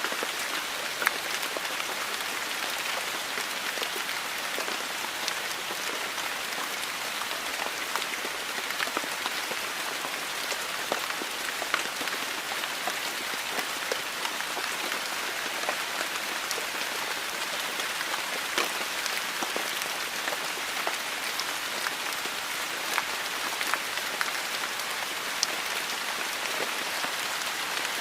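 Shower water spraying steadily, a dense hiss with scattered sharp ticks of drops and splashes.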